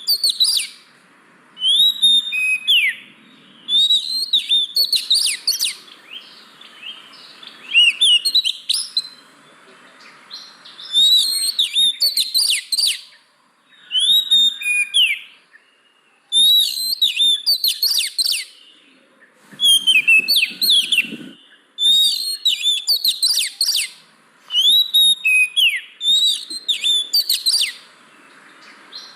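Oriental magpie-robin (kacer) singing: short, loud phrases of clear whistles and quick downward-sliding notes, repeated every two seconds or so with brief pauses between them.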